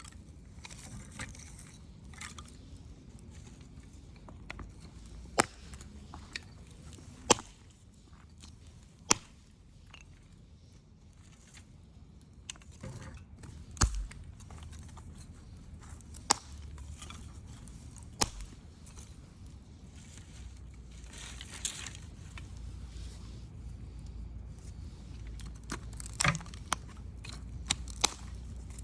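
Wood campfire crackling, with sharp pops at irregular intervals every second or few over a low steady rumble.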